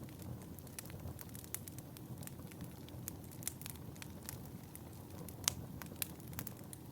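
Wood fire in a fireplace crackling, with irregular sharp pops over a low steady rumble; the loudest pop comes about two-thirds of the way through.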